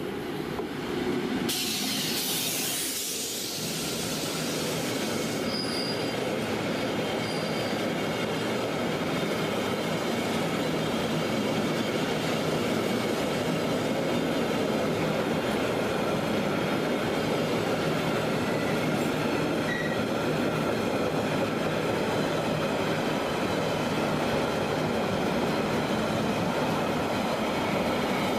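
Long container freight train hauled by a WAG9 electric locomotive passing close by. A loud high hiss lasts about four seconds as the locomotive goes by, then the container wagons roll past in a steady rumble of wheels on rail, with a few faint, brief squeals.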